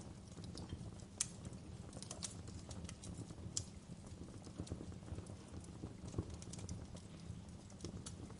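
Wood fire burning in a fireplace: irregular crackles and sharp pops over a low steady rumble, with the loudest pops about a second in and again midway.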